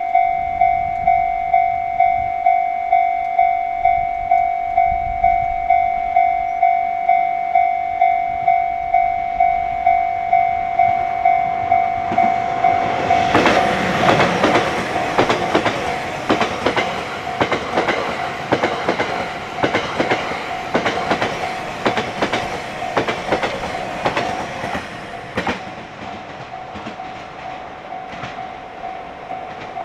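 Japanese level-crossing alarm ringing about twice a second. About halfway through, the E001 series Train Suite Shikishima passes over the crossing, its wheels clattering over rail joints for about twelve seconds before fading as it moves away. The crossing alarm rings on underneath.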